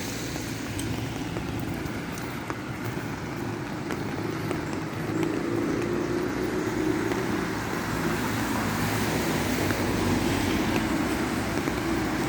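Car driving on a rain-wet road: steady engine and tyre noise, with the engine note rising a little about five seconds in and again near the end.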